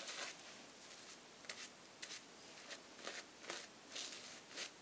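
Shaving brush working thin, bubbly lather of Master shaving soap, a faint brushing rasp about twice a second. The soap is failing to build a proper lather.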